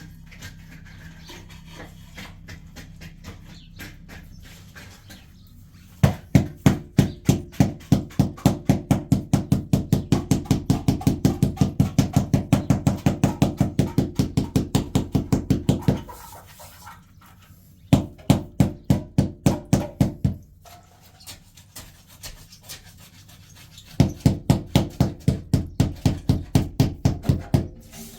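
Rapid, even knocking strokes, about four or five a second, in three bouts: a long run of about ten seconds, a short one, then another of about four seconds.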